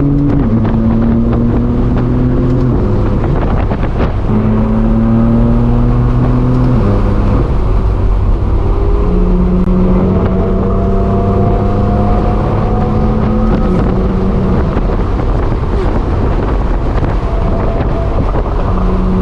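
BMW M4 F82's twin-turbo straight-six running loud through a straight-piped exhaust under way, its note climbing slowly and then dropping suddenly several times, with wind and road noise underneath.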